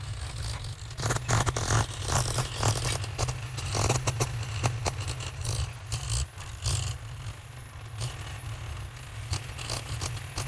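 Heavy machinery at work: a steady low engine rumble under many irregular scrapes, rattles and clanks.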